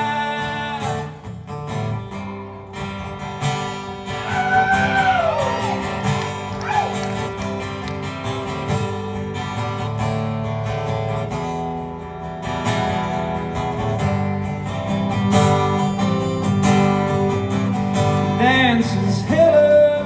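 Live acoustic guitar strumming an instrumental break in a country-folk song, just after a sung note is held briefly at the start. A gliding melody line comes in over the chords a few seconds in and again near the end.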